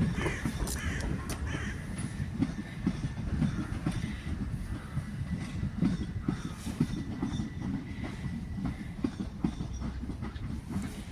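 Train running along the track, a steady rumble with the wheels clicking over rail joints, and a faint steady high whine.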